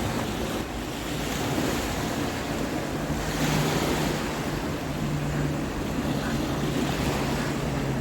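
Ocean surf breaking and washing up a beach, with wind buffeting the microphone. A low steady hum joins in and out from about three seconds in.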